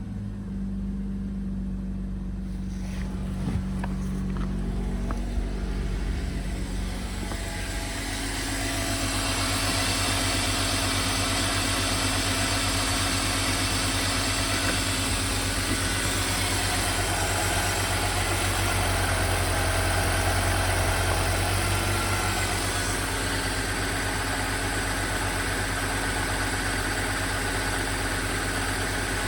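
BMW M52B20 2.0-litre inline-six engine running steadily at idle, growing louder and hissier about eight seconds in.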